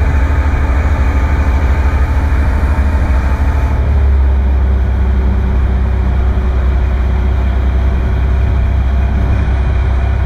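Boat engine running with a loud, steady low rumble. About four seconds in the higher hiss drops away and the rumble evens out.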